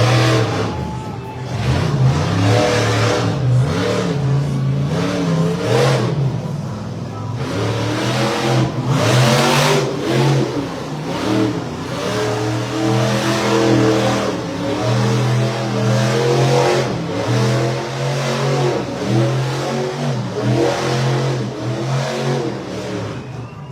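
Monster truck engine revving hard over and over, its pitch climbing and falling with each burst of throttle.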